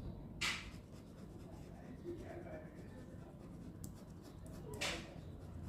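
Ballpoint pen scratching across paper: two longer, louder strokes, about half a second in and near the end, with fainter short ticks of the pen in between.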